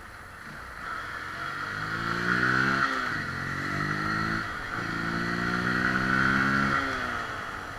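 Bajaj Pulsar RS 200's single-cylinder engine and stock exhaust pulling hard, its pitch rising three times with brief drops between, then fading near the end.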